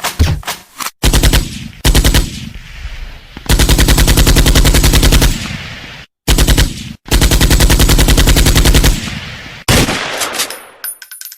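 Machine-gun sound effect: several bursts of rapid automatic fire, short ones first and then two longer runs, fading out near the end.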